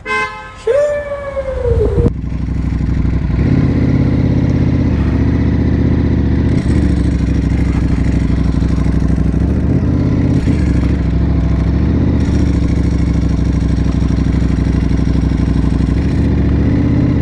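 Sport motorcycle riding under way: the engine runs steadily with wind rush over the microphone, from about two seconds in, and its note shifts a few times.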